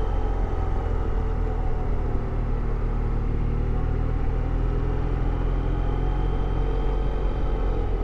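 Motorcycle engine running steadily, a low even drone with road and wind noise over it.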